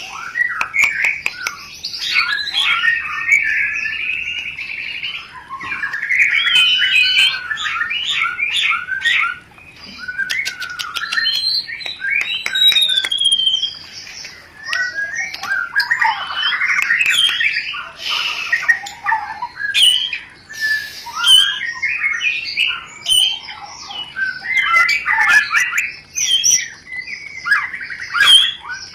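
White-rumped shama (murai batu) in breeding condition singing a long, varied, rapid song mixed with sharp clicking chatter (the 'rencetan' call), with a few brief pauses.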